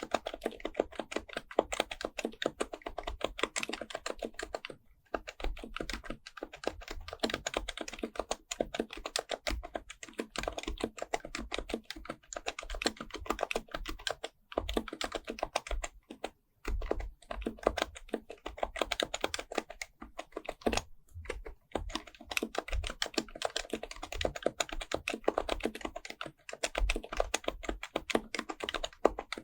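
Fast, continuous typing on an HHKB Pro Type-S keyboard with its silenced Topre capacitive switches, fitted with bke-9400a parts, the keystrokes running in dense streams broken by a few brief pauses.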